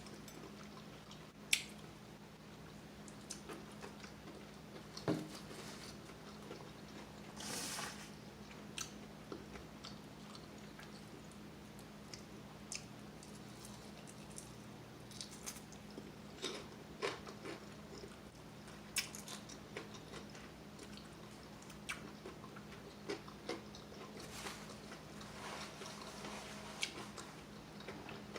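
Close-miked eating of crispy breaded chicken wings: scattered crunches and clicks of biting and chewing, with a longer crunch about eight seconds in, over a faint steady hum.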